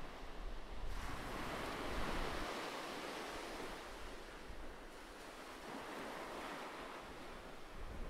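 Ocean waves breaking on the shore: a wave surges in about a second in, then washes back and slowly fades.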